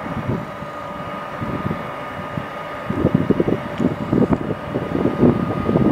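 Electric-hauled Intercity passenger train starting to pull out of the station: a steady electric hum, with a low, uneven rumble of wheels and couplings growing louder from about halfway.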